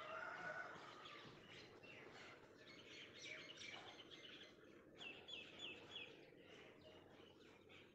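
Faint chirping of small birds over a low background hiss, with a run of about four quick falling chirps about five seconds in.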